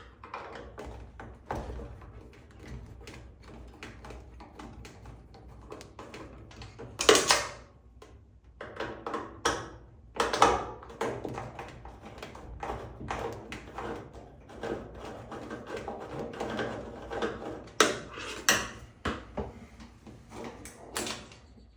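Clicks, taps and scrapes of a Phillips screwdriver backing out the two screws that hold a dryer's door switch, with parts being handled in the top panel and a few louder knocks.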